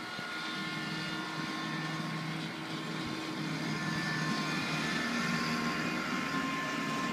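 Engine of a turf machine brushing top-dressing sand into a freshly cored golf green, running steadily, its pitch shifting slightly and getting a little louder in the second half.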